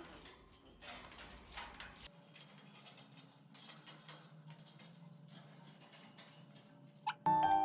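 Faint scattered clicks and scratching from an eclectus parrot moving about, with one short rising squeak about seven seconds in. Background music comes back near the end.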